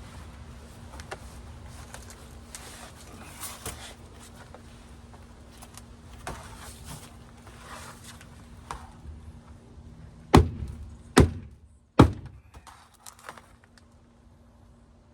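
Hammer striking the crushed sheet-metal door and rocker panel of a Dodge Dakota pickup: light knocks and handling noise, then three heavy blows about a second apart near the end.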